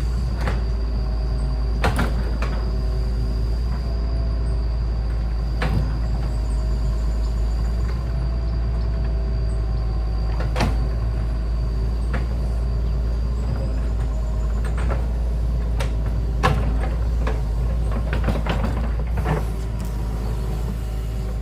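A motor vehicle's engine running steadily, with scattered knocks and rattles.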